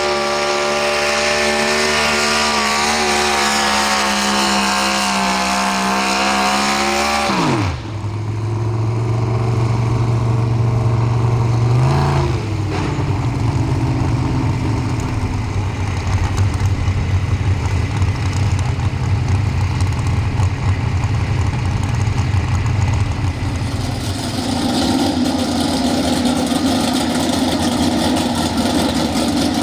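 Pro Stock 4x4 pulling truck's engine at high revs with the pitch wavering, then dropping sharply to a low idle about seven and a half seconds in. The idle runs on with one brief blip of the throttle, and near the end a different engine sound comes in.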